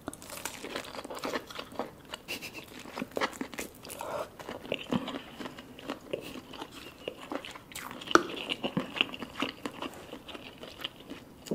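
Close-miked biting and chewing of cheese-coated lobster claw meat: a steady run of short wet mouth clicks and smacks, with the sharpest click a little past eight seconds in.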